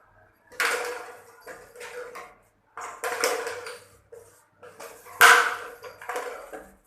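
A bottle clattering and rattling as a small dog plays with it, in about six separate bursts, the loudest about five seconds in.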